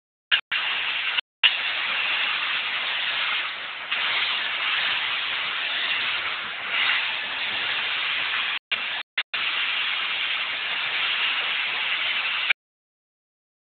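Robot vacuum cleaner running with a steady hissing whirr, cutting out to silence several times for a fraction of a second and stopping suddenly about a second before the end.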